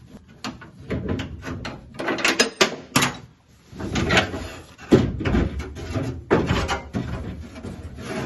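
Repeated metal clunks, knocks and scraping as a 1967 Mustang's vent window assembly is worked loose and pulled out of the steel door shell, with the loudest bangs about two to three seconds in and again about five seconds in.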